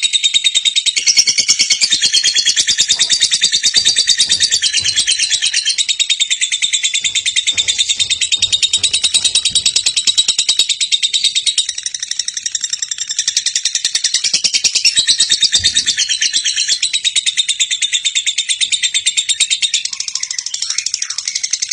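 Lovebird chattering in a long unbroken stream of rapid, high-pitched chirps, the drawn-out trilling song that bird keepers call "ngekek panjang".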